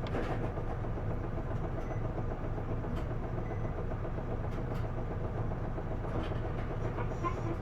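Isuzu Erga city bus's six-cylinder diesel engine and drivetrain running steadily, a low drone with road noise, heard from inside the passenger cabin. This bus is one the owner says makes an unusual noise it did not make when new.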